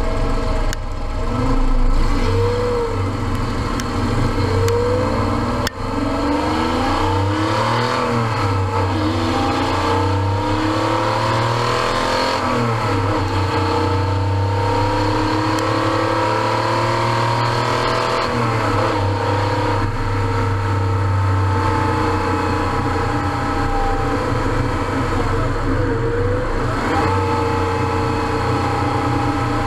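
Air-cooled 3.2-litre flat-six of a 1989 Porsche 911 Carrera, breathing through a SCART Riva muffler with the catalytic converter bypassed, running loudly and rising and falling in pitch several times as it builds revs and eases off.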